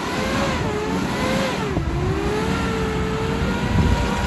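Radio-controlled off-road truck's motor whining as it drives, its pitch wavering up and down with the throttle, with a brief sharp drop about two seconds in, over a rough low rumble.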